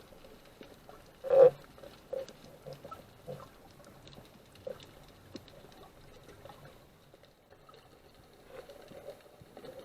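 Underwater sound picked up through a camera housing: scattered soft clicks and knocks over a faint hiss, with one louder knock about a second and a half in.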